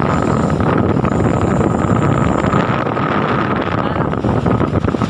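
Truck engine running steadily with a constant thin whine over it, and wind buffeting the microphone.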